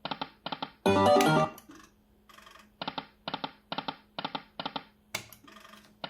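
Timber Wolf slot machine playing its spin sounds: short electronic plinking notes repeating evenly, about two a second. About a second in there is one brief, louder musical chime.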